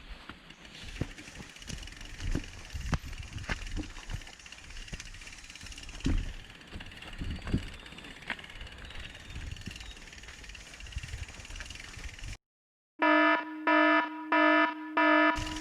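Mountain bike riding over a rough, muddy trail: a rumbling rattle with scattered sharp knocks and clicks, plus wind on the helmet-camera microphone. Near the end, after a moment of dead silence, four loud electronic beeps sound about half a second apart.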